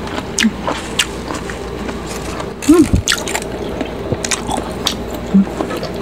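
Close-miked wet chewing of boiled pork soup and rice, with many short lip smacks and mouth clicks. About three seconds in comes a louder wet mouth sound.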